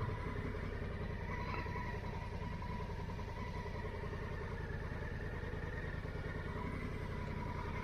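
Honda Africa Twin motorcycle running steadily while being ridden at low speed.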